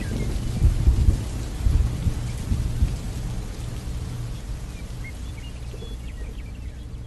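Rain falling with low rumbling thunder. The rumble is loudest in the first two seconds and eases off toward the end.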